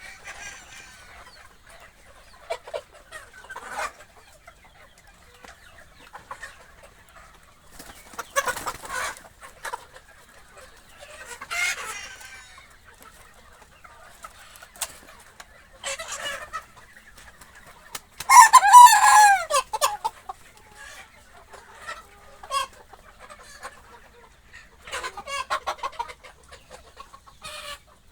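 A flock of Sonali chickens clucking in scattered short bursts, with a rooster crowing once, loudly, a little past the middle.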